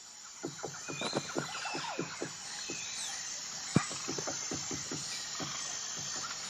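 Woodpecker pecking at a tree trunk: an irregular run of taps, several a second, with one sharper, louder knock just under four seconds in. A steady high insect trill and a few bird chirps sound behind it.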